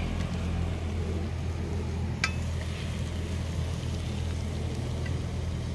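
Stir-fried grubs in a wok faintly sizzling and being scooped out with a wooden spoon, with one sharp clink about two seconds in, over a steady low rumble.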